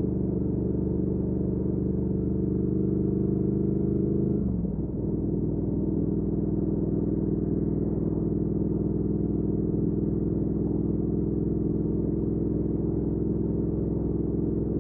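Triumph Speed Twin 1200's parallel-twin engine running through a Weslake Shorty Pro exhaust at a steady cruise. Its note drops sharply about four and a half seconds in, then runs steady at a lower pitch.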